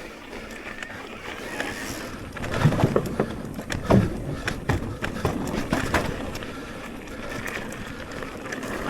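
Electric mountain bike ridden fast over a rough trail: tyre noise and a rapid run of knocks and rattles from the chain and suspension over bumps, heaviest in the middle.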